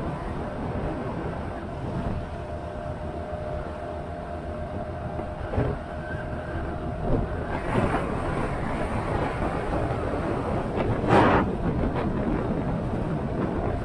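Motorcycle riding on the road: a steady engine and road rumble with wind on the microphone, and a louder brief rushing burst about eleven seconds in.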